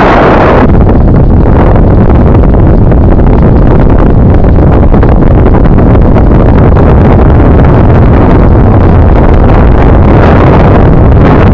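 Wind buffeting the microphone of a camera carried on a moving bicycle: a loud, constant rush with stronger gusts around the start and again about ten seconds in.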